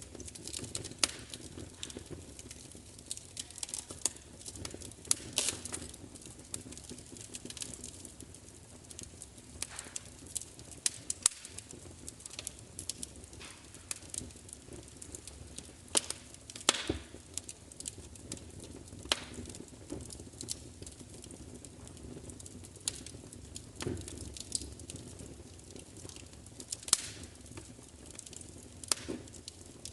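Wood fire crackling: irregular sharp snaps and pops, a few much louder than the rest, over a low steady hiss.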